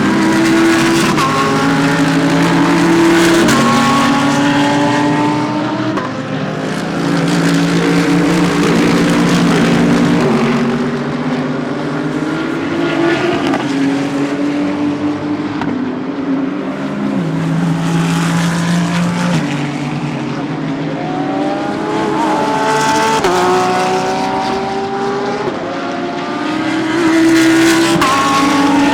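GT3 race cars at racing speed, several engines overlapping, each climbing in pitch and dropping back in steps as it shifts up through the gears.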